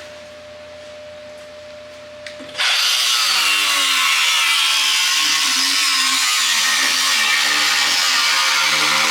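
A power tool starts working on the truck's sheet metal about two and a half seconds in, then runs loud and steady with a slightly wavering pitch.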